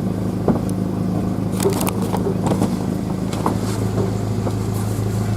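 A vehicle engine running steadily with a low hum, with scattered light clicks and knocks.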